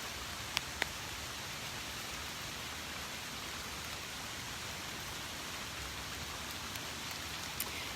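Steady hiss of rain falling with runoff water rushing over the ground, with two short sharp ticks just under a second in.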